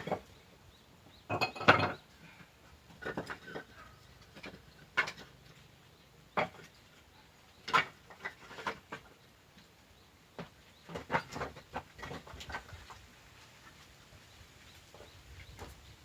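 Irregular wooden knocks and clatters of split firewood pieces being handled and dropped, about a dozen light impacts spread unevenly with pauses between them.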